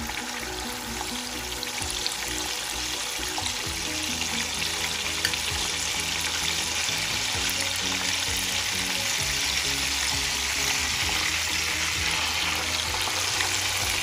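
Food frying in hot oil in a pan, a steady sizzle that grows louder, with background music playing along.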